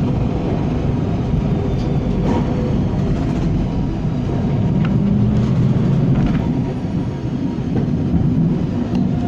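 W6 class tram running along the track, heard from aboard: a steady rumble of wheels on rails and running gear, with a few faint clicks and knocks.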